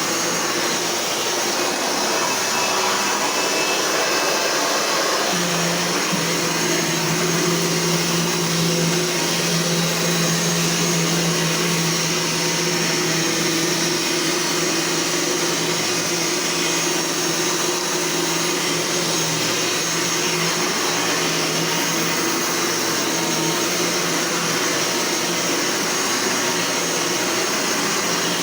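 Eureka Powerline Gold 10-amp vacuum cleaner running steadily: a constant rush of air over a motor hum, the motor's note shifting slightly about five seconds in.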